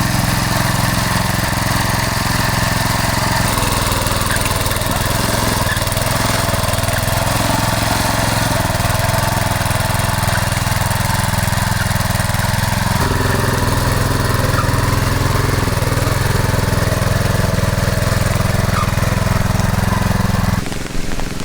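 Motoblock (walk-behind tractor) engine running steadily. Its note shifts about three and a half seconds in and again about halfway through, and the sound cuts off abruptly near the end.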